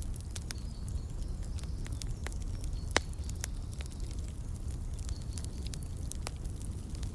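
Wood fire crackling in a fireplace: irregular sharp pops and snaps over a steady low rumble, with one loud crack about three seconds in. Faint short bird chirps come in the background now and then.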